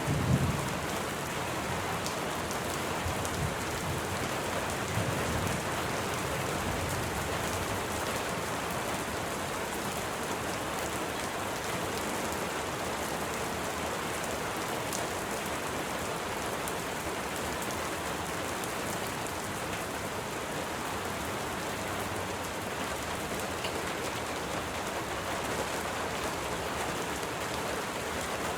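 Steady rain falling, an even hiss of many drops. Just after the start there is a brief low thump, with a few fainter low rumbles over the next several seconds.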